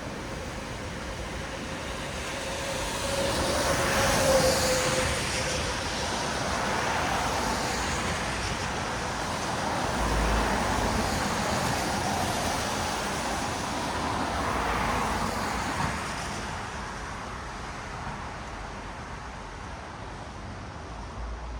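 Traffic on a wet city road, tyres hissing through the water as vehicles pass. Several vehicles swell past, the loudest about four seconds in and others around ten and fifteen seconds in, before the traffic eases to a lower steady hiss.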